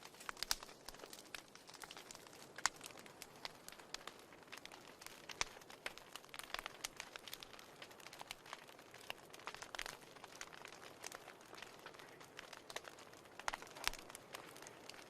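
Fire in a fireplace crackling: irregular sharp pops and snaps over a soft, steady hiss.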